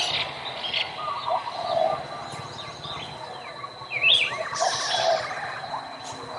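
Several small songbirds chirping and calling, with many short chirps and quick sweeping notes overlapping, over a thin steady high tone.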